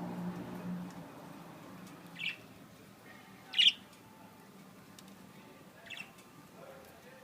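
Parakeets giving short, sharp chirps: three separate calls a second and a half to two seconds apart, the middle one the loudest.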